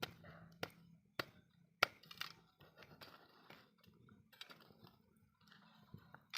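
Wood fire crackling: four sharp pops in the first two seconds, the loudest about two seconds in, then lighter scattered crackles.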